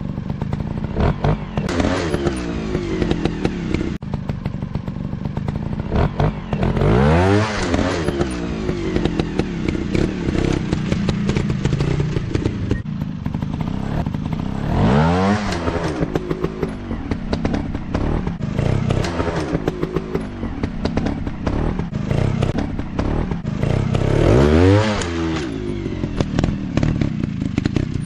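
Off-road dirt bike engine running on the throttle, revving up and dropping back sharply three times, with clattering and knocks throughout.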